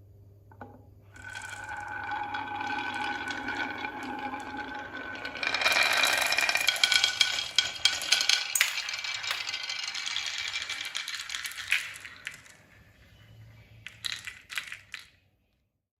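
Small hard objects rattling and clinking. There is a steady ringing tone in the first few seconds, a dense rattling through the middle, and a few sharp clicks near the end.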